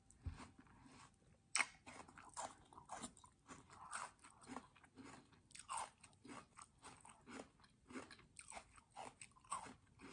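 Quiet, close-up chewing of a crunchy mouthful of iced water chestnut dessert, with small irregular crunches about two to three a second.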